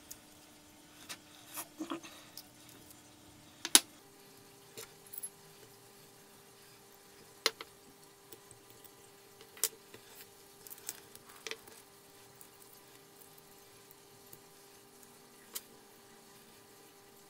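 Scattered light clicks, taps and clinks of small metal multiplier-reel parts, the frame and side plates of a Daiwa Saltist 30H, being handled, picked clean and fitted together, with one sharper knock a few seconds in.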